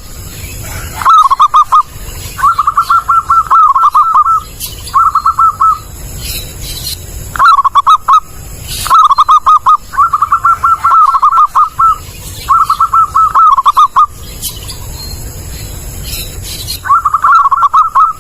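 Zebra dove (perkutut) singing: about eight bouts of quick, rapidly repeated cooing notes with short pauses between them, over a low background rumble.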